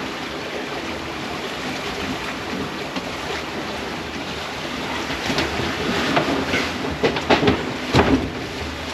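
Steady rush of wind and water on a sailboat under way, with several sharper, louder splashes in the second half.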